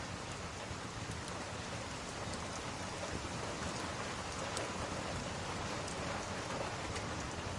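Steady rain falling, an even continuous hiss, with a few faint sharp ticks scattered through it.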